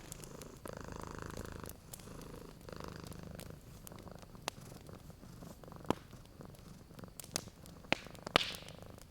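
Domestic cat purring in slow swelling waves, with a wood fire crackling and popping; the sharpest pops come in the second half, the loudest near the end.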